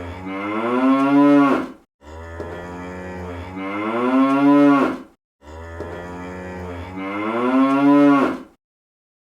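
A cow mooing: the same long moo three times in a row, each starting low and steady, then rising in pitch before breaking off.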